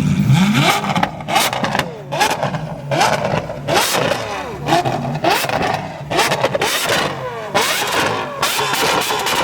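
Car engine revved hard over and over, each rev a quick rise and fall in pitch about once a second, with sharp cracks in between, really loud.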